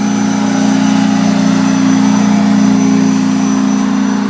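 A train's locomotive running close by with a loud, steady low drone that swells slightly and eases off toward the end.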